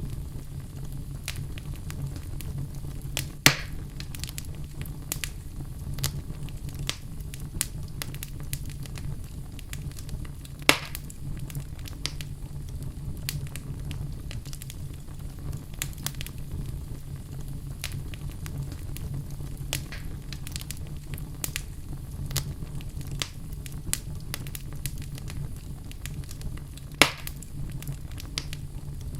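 Wood fire burning in a fireplace: a steady low rumble of flames under frequent small crackles, with three louder sharp pops, a few seconds in, about a third of the way through and near the end.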